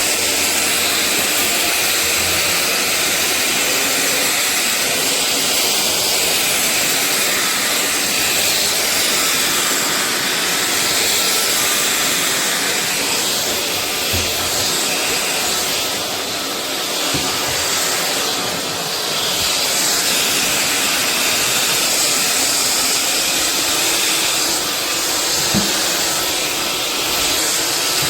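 SunSare X7A cordless stick vacuum running steadily, a loud rushing hiss that eases slightly for a few seconds midway, with a few light knocks.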